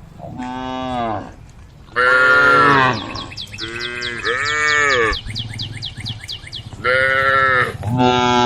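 Cows mooing: a string of about six calls, each rising and then falling in pitch, some of them close together. Behind them, a quick run of high, short chirps goes on for a few seconds mid-way.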